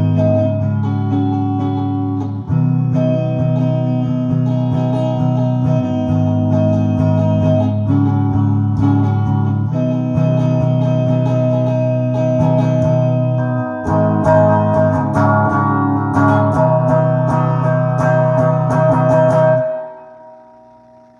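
Guitar-led music: sustained chords with effects over a heavy low bass line, changing every few seconds. About twenty seconds in the music stops and the last chord fades away.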